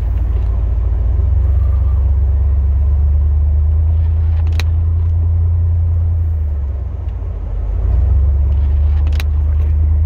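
Pickup truck engine running with a steady low rumble that eases off briefly about two-thirds of the way through, then picks up again. Two sharp clicks sound in the middle and near the end.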